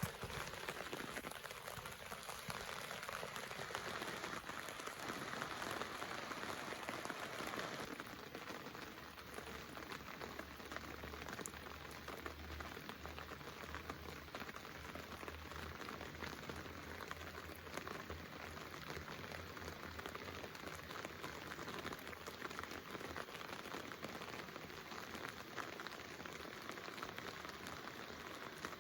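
Steady rushing water noise. About eight seconds in the sound changes, and a low steady hum comes in underneath.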